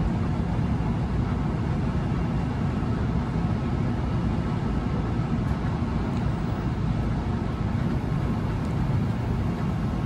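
Steady low rumble of a train running on the Northeast Corridor tracks.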